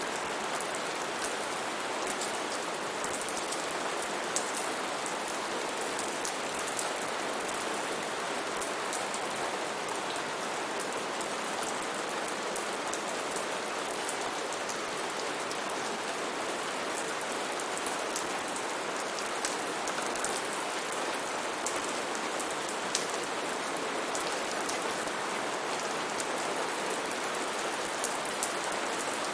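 Rainforest rain falling steadily: an even hiss with many sharp drop ticks scattered through it.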